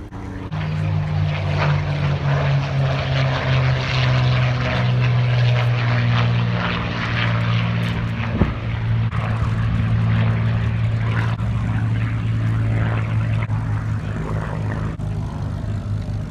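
Supermarine Spitfire's Rolls-Royce Merlin V12 piston engine and propeller in a low display pass. It is a loud, steady engine note that swells in half a second in and drops a little in pitch about six seconds in.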